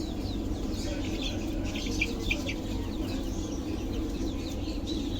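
A crowd of caged birds chirping, with many short high chirps overlapping and clustering about two seconds in, over a steady low background hum.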